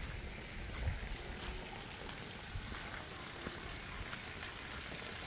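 Rain falling steadily on wet concrete ground, an even hiss with scattered faint drop ticks.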